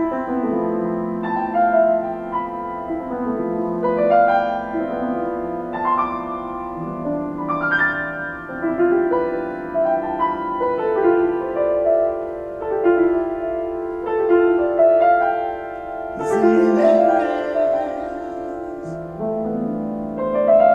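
Solo piano playing slow, sustained chords and a simple melody, with chords changing every second or two.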